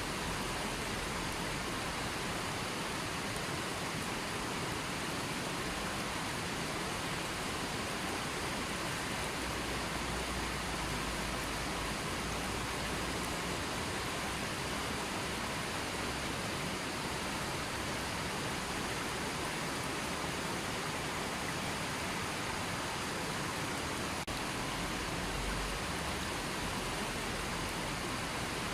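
River water flowing, a steady, even rush without breaks.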